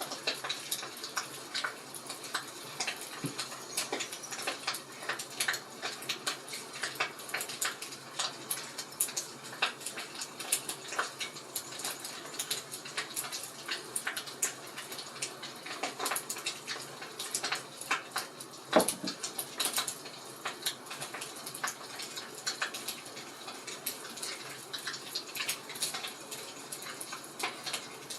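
Wood fire crackling: irregular snaps and small pops over a soft hiss, with one louder pop about 19 seconds in.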